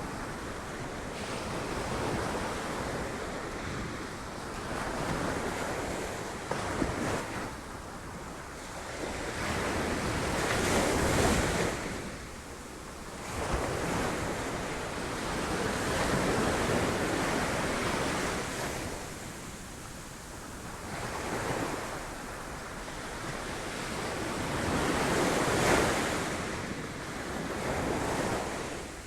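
Sea waves crashing against rocks, the surge swelling and ebbing every few seconds, with the loudest breaks about a third of the way in and near the end.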